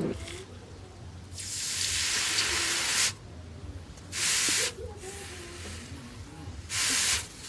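Hot forged steel hissing in quench water in three bursts: one of nearly two seconds, then two short ones about two and a half seconds apart, as the axe head is dipped and lifted.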